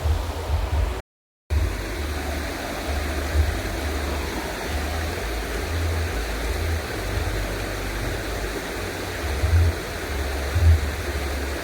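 Steady outdoor rushing noise like flowing water, with wind buffeting the microphone in uneven low rumbles. It breaks off into silence for half a second about a second in, at an edit.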